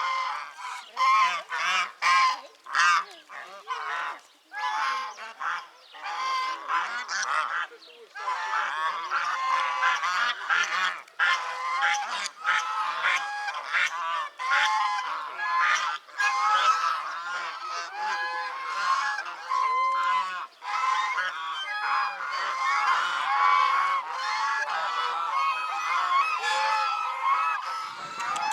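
A flock of farmyard geese honking, many calls overlapping continuously.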